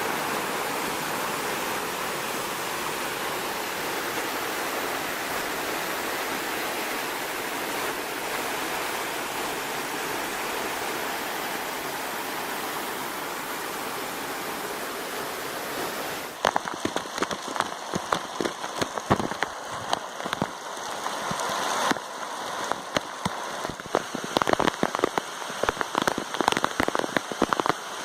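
Steady rushing of a rain-swollen waterfall. A little over halfway through, this changes to sharp, irregular taps of water drops striking close to the microphone.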